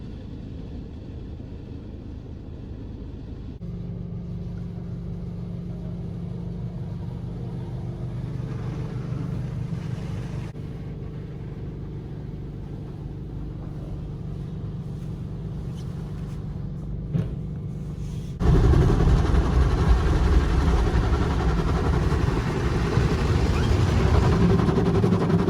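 Automatic rollover car wash heard from inside the car: the machine's motors hum steadily with a low drone that steps up a few seconds in. About 18 seconds in, a sudden loud rushing noise starts as the wash hits the car and continues to the end.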